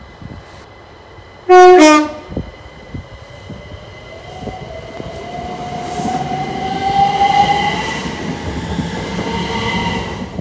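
Passenger train sounding a short two-note horn, high note then low, then running past with a whine that rises in pitch and the steady noise of wheels on rails.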